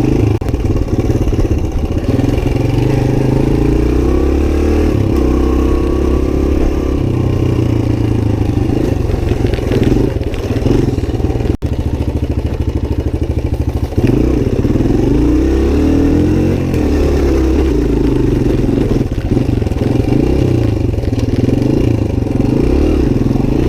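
Suzuki DR-Z125's four-stroke single-cylinder engine running hard under load on a dirt hill climb, revving up and down as the rider works the throttle and gears. There is a momentary break about halfway.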